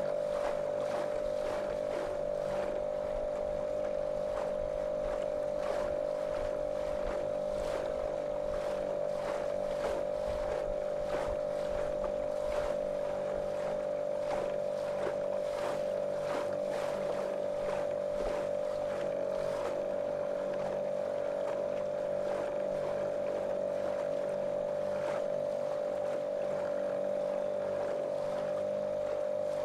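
Small motorboat's motor running at a steady cruising speed, a monotonous drone that holds one pitch. Frequent short slaps of water against the hull come at irregular intervals over it.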